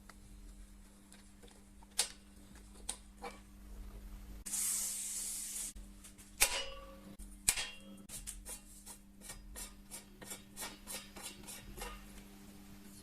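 Hand work on metal bicycle parts: scattered clicks and knocks, a brief hiss like an aerosol spray about four seconds in, two sharper metallic clanks soon after, then a run of quick, uneven ticks of about three to four a second.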